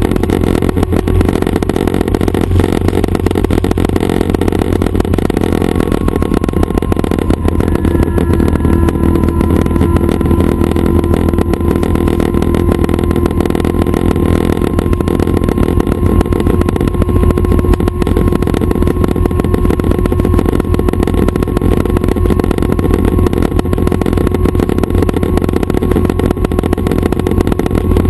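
Schweizer 269 training helicopter's piston engine and rotors running steadily, a dense fast beat, with a faint steady whine that comes in about eight seconds in.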